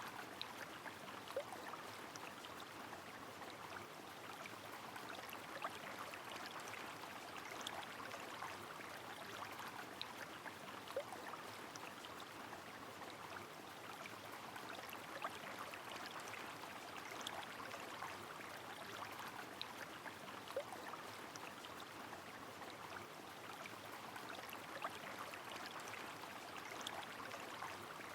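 Faint, steady rush of a flowing river in the rain, with scattered light ticks of raindrops through it.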